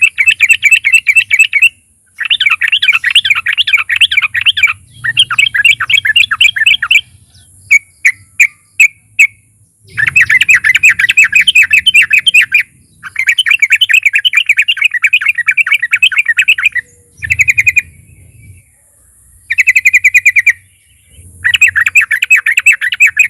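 Yellow-vented bulbul (trucukan) singing: fast chattering runs of notes in repeated bursts of one to three seconds, with a few separate single notes about eight seconds in.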